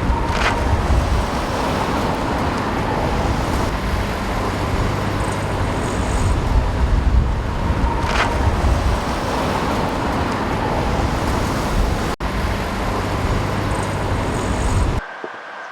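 Steady vehicle or road-traffic noise with a heavy low rumble, which cuts off abruptly near the end.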